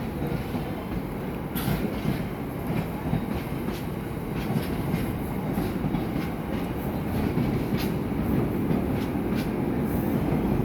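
Train running on the rails: a steady low rumble with scattered faint clicks of the wheels.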